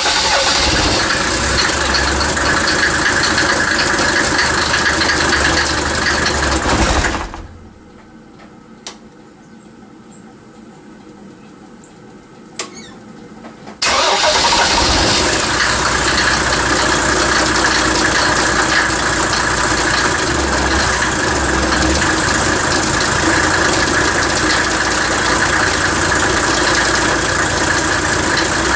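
Mercedes OM603 six-cylinder diesel engine running steadily. About seven seconds in it drops away to a much quieter stretch with a couple of faint clicks, and about six seconds later it is running again.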